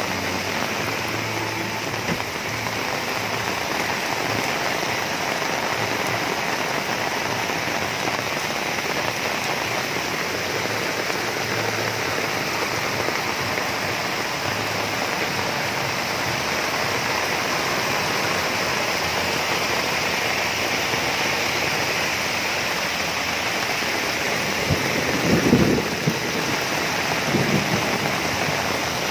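Heavy rain falling steadily, mixed with runoff water rushing and cascading down the steps of a concrete roadside drain. Near the end there is a brief low rumble, louder than the rain, and a smaller one soon after.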